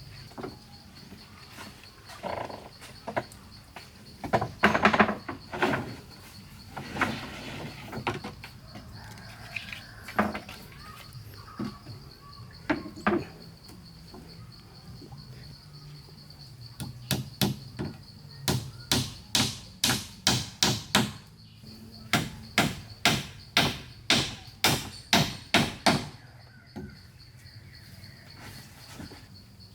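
A hand tool striking wood in a steady run of sharp knocks, about two a second, for much of the second half, with scattered single knocks before. A steady high insect drone runs underneath throughout.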